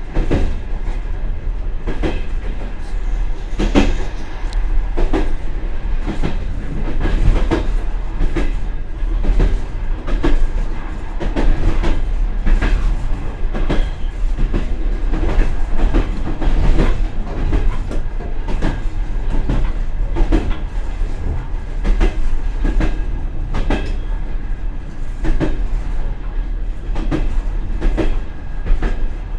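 Passenger train carriage running along the track: a steady low rumble with the wheels knocking and clattering over rail joints, heard from inside the rear vestibule of the last car.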